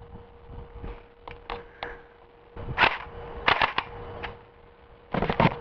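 Electric M4/M16-style airsoft rifle firing a string of single shots, about eight to ten sharp snaps at uneven intervals, with a faint steady hum underneath.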